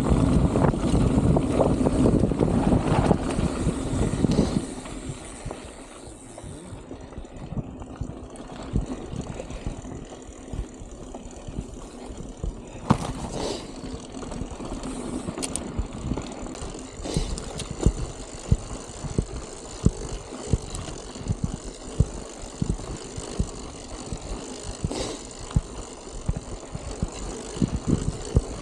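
Wind buffeting the microphone for the first four seconds or so, then a bicycle rattling and clanking over rough, bumpy ground with many irregular knocks.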